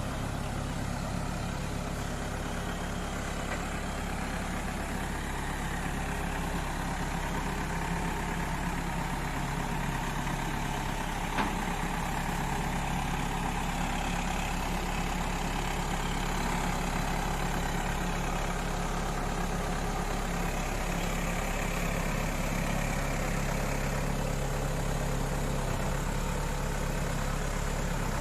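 Tow truck's engine idling steadily, with a single sharp click about eleven seconds in.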